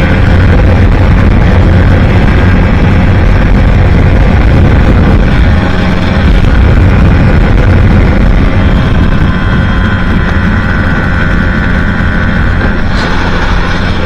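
Aprilia Tuono 125's single-cylinder four-stroke engine running steadily at high revs through a Leo Vince exhaust, at motorway speed, under heavy wind noise on the microphone. A brief louder rush comes near the end.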